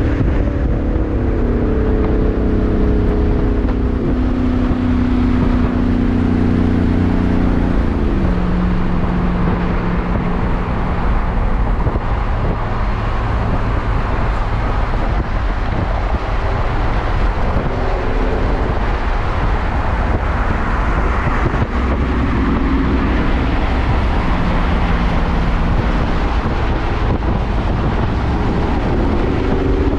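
Vehicle engine running over steady road and traffic noise; the engine note holds a steady pitch, then drops about eight seconds in, with a fainter engine hum later.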